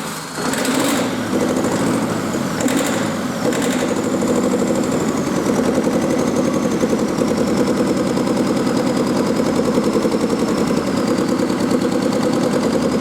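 Fiat Ducato 2.3 MultiJet four-cylinder turbodiesel running at a steady idle on a test stand, with a fast even diesel clatter. A few sharp clicks sound in the first few seconds, and a faint high whistle slowly drops in pitch.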